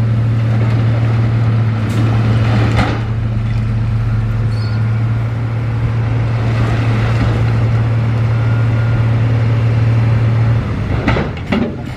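Heavy diesel engine of earthmoving machinery running steadily with a deep, even hum, with a few sharp knocks. The engine note drops away near the end.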